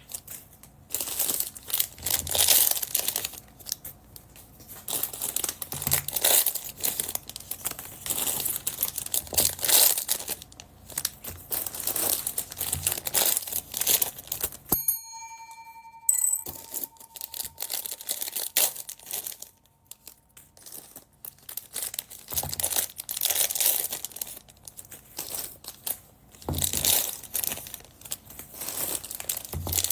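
Plastic packaging bags crinkling and tearing as they are handled and opened, in irregular bursts. About halfway through the crinkling stops briefly and a short ringing tone sounds.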